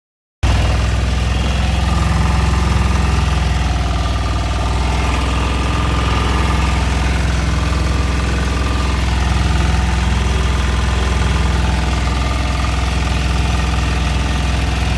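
A fishing boat's engine runs steadily with a low, even hum. The sound cuts in abruptly just after the start and stops just as abruptly at the end.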